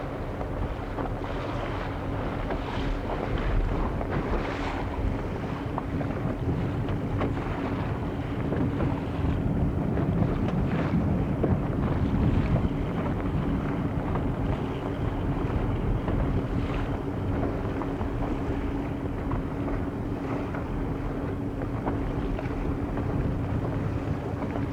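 Motorboat engine running steadily with a constant hum, under wind noise on the microphone.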